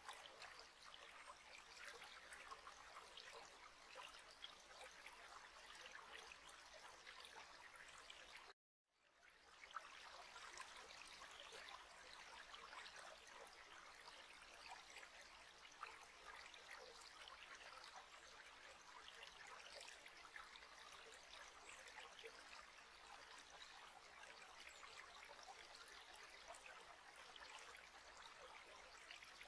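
Faint trickling stream, a steady flow of water. About eight and a half seconds in it cuts out for half a second and fades back in, like the join of a looped recording.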